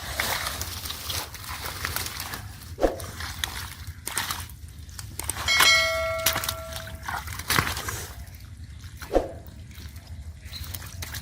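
Shallow water sloshing and splashing, with a few sharp splashes, as hands work through it. About halfway through, a brief ringing tone with several overtones sounds over the water, under a steady low hum.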